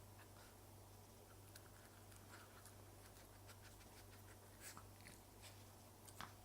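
Faint, scattered light clicks and taps of a small puppy nosing and pawing at a dog puzzle toy, the two loudest near the end, over a steady low electrical hum.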